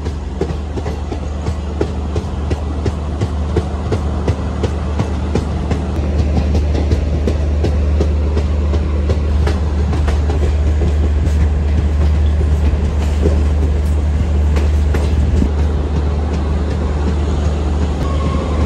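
Garib Rath express coach running at speed, heard from its open doorway: a steady low rumble of wheels on rail with a dense run of sharp clicks as the wheels cross rail joints. It grows louder from about six seconds in.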